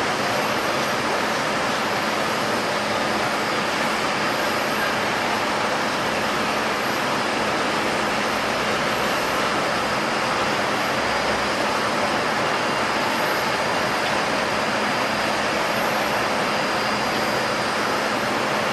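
Jet airliner engines running steadily, with a faint high whine that rises slightly in pitch in the second half.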